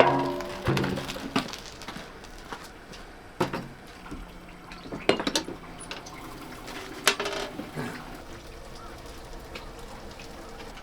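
Kitchen handling sounds: scattered clinks and knocks of utensils against dishes, with some liquid sounds.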